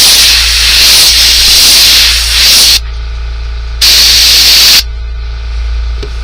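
Airbrush spraying paint onto a fishing lure: a long hiss that cuts off nearly three seconds in, then one more burst of about a second. A steady low hum runs underneath.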